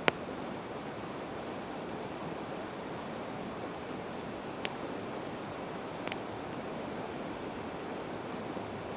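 Split evergreen wood burning in a campfire, crackling with a few sharp pops, the loudest just as it starts, over a steady river rush. A cricket chirps about twice a second through most of it.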